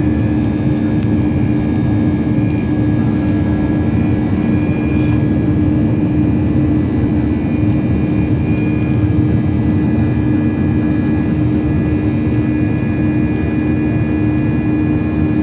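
Steady drone of an Airbus A320-200's jet engines and rushing air, heard inside the passenger cabin, with a constant low hum running through it.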